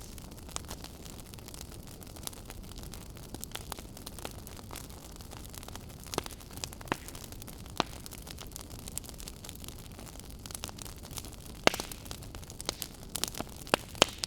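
Wood fire burning in a fireplace, crackling and popping at irregular intervals over a soft steady rush, with a few sharper pops near the middle and a cluster near the end.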